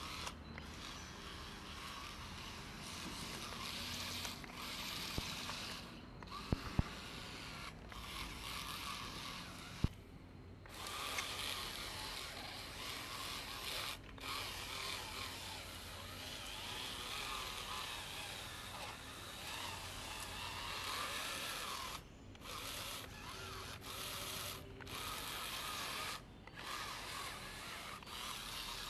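Small electric motor and gears of a wooden model truck with spiral screw wheels whirring as it drives, cutting out briefly several times, with a few light clicks in the first seconds.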